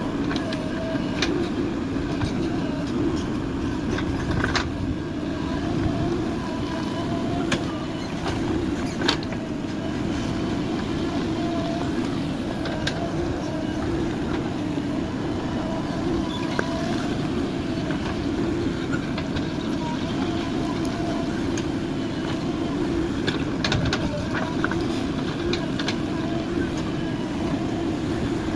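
JCB 3DX backhoe loader's diesel engine running steadily under work, with a faint wavering whine over it and scattered sharp clicks and knocks.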